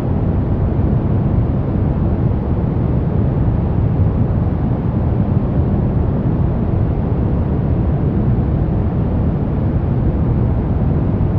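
Continuous noise sleep track sold as white noise, deep and rumbling rather than hissy, with most of its weight in the low end. It holds an even level throughout, with no changes.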